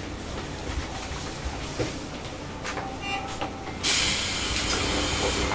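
Inside a Sendai Subway 1000N series car standing at a station: a steady low hum of the stopped train's equipment and air conditioning, with a few small clicks. About four seconds in, a loud steady hiss of air sets in suddenly and carries on.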